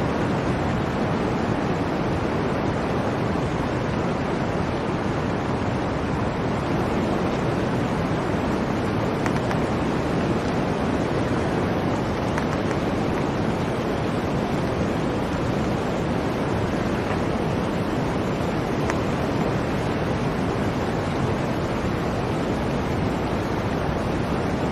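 Blizzard wind: a steady, even rush of low wind noise with no gusts or breaks.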